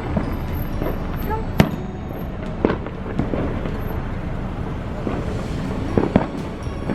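Fireworks going off: a sharp bang about a second and a half in, another near three seconds, and two more close together near the end, over a steady low rumble.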